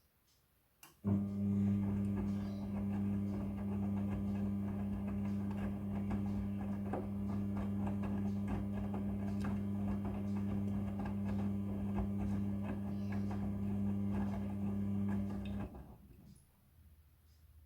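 Front-loading washing machine's drum motor running in the wash cycle: a steady hum with a low tone starts about a second in, with light clicks and knocks throughout, and stops near the end as the drum pauses between turns.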